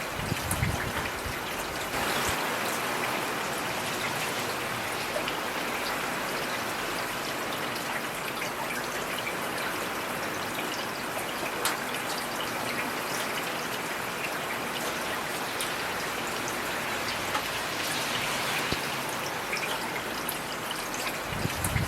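Heavy rain falling steadily, with many individual drops ticking sharply on a hard surface. A brief low thud comes just after the start and another near the end.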